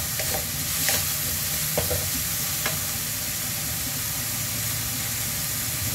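Carrot strips and chicken sizzling in a frying pan, stirred with a wooden spatula: a steady frying hiss with a few sharp scrapes and taps of the spatula on the pan in the first three seconds, then sizzling alone.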